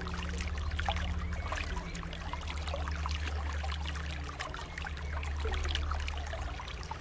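Flowing water trickling and splashing: a steady rush dotted with many small, quick droplet splashes.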